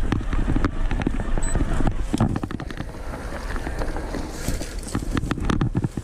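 Mountain bike rolling over a rough forest trail: wind buffets the microphone in a steady low rumble, while the bike clatters and knocks over bumps in many short, sharp clicks.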